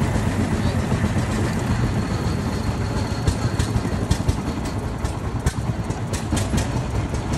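Single-cylinder engine of a 1903 Cadillac running with a steady, even beat as the car drives slowly, with a few sharp ticks in the middle.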